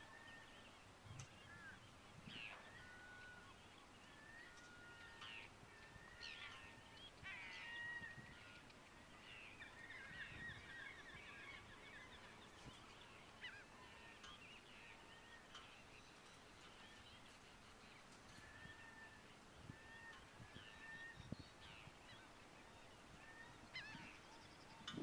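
Faint calls from a large flock of birds in flight: many short calls overlapping, growing into a denser chorus around ten seconds in, then thinning out.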